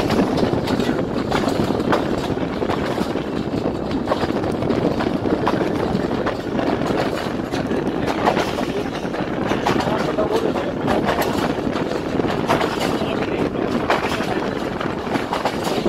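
Pakistan Railways passenger train running along the track, heard from a coach window: a steady rumble of wheels on rails with scattered light clicks.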